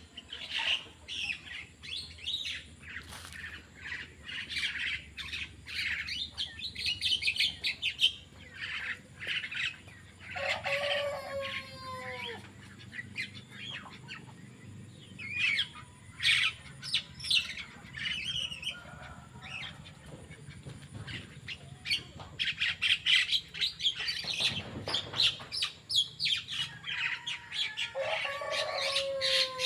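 Small birds chirping in rapid, busy bursts of short high notes. Twice, about ten seconds in and near the end, a lower, drawn-out call slides downward in pitch over a second or so.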